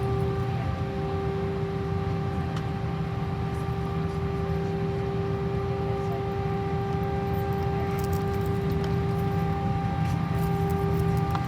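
Airbus A319 cabin noise: a steady drone of jet engines and airflow, with a few constant tones over a low rumble.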